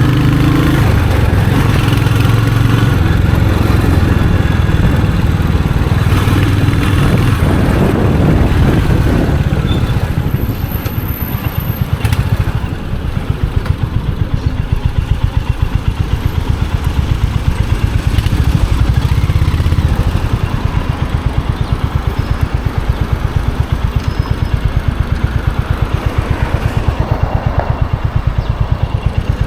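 Royal Enfield Hunter 350's single-cylinder engine and exhaust, running under way at first, then dropping back about ten seconds in to a low, evenly pulsing thump.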